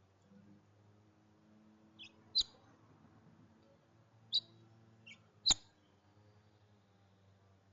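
A small bird chirping: five short, sharp call notes spread over a few seconds, the loudest about two and a half and five and a half seconds in.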